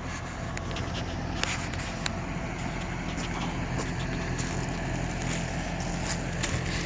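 SUV engine idling steadily, with a few light clicks over it.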